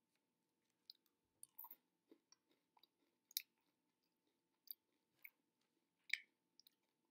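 Faint, irregular crunching of crunchy mint M&Ms being chewed, their crisp candy shells breaking, with the loudest crunches about three and a half and six seconds in.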